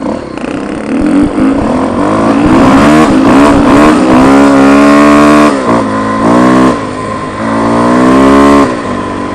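Dirt bike engine accelerating hard, its revs climbing and then dropping at gear changes about five and a half, six and a half and eight and a half seconds in.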